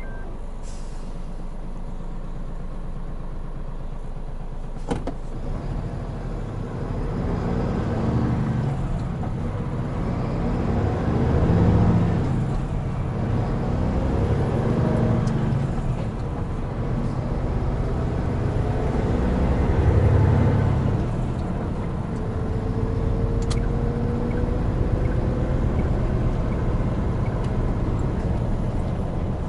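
Hino Profia heavy truck's diesel engine pulling under load, its note rising and dropping back several times as it works up through the gears. There is a single sharp click about five seconds in.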